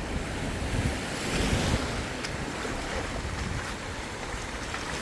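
Ocean surf washing onto a sandy beach, swelling about a second and a half in, with wind rumbling on the microphone.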